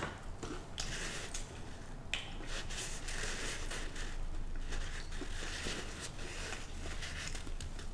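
A person chewing a french fry close to the microphone, with soft, faint crunches and mouth noises.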